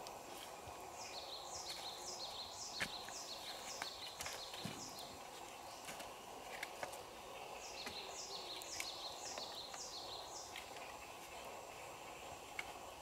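A bird calling in two runs of rapid high-pitched notes, each note falling in pitch, about three a second. It is accompanied by a few light knocks of bamboo poles being handled.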